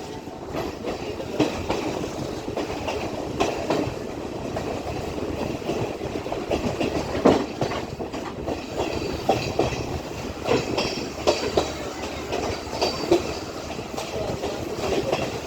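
Class S12 diesel multiple unit running along the line, with a steady rumble and the wheels clacking over rail joints every second or so.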